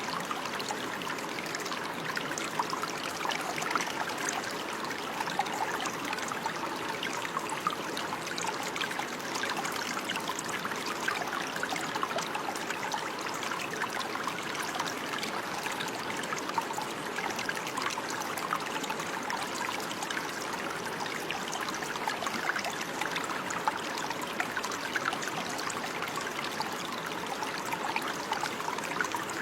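Steady running water, a small stream trickling and babbling with many fine splashes and no change in its flow.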